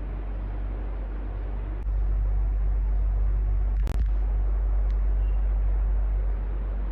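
Electric fan running steadily: a low hum under an even rush of air. The low rumble grows louder about two seconds in, and a single sharp click sounds near the middle.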